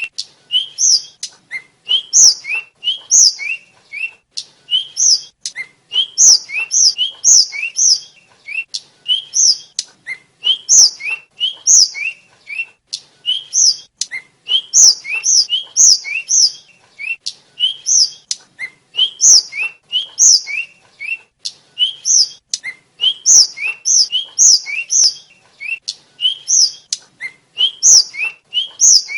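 Tledekan (sikatan), a small Asian flycatcher, singing: short, high, thin whistled notes in quick clusters of two to four, repeated about once a second without a break.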